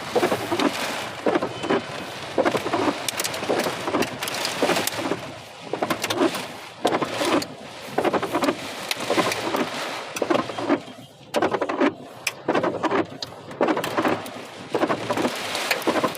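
Storm rain with hail pelting down: a steady rush of rain broken by many sharp, irregular impacts of hailstones.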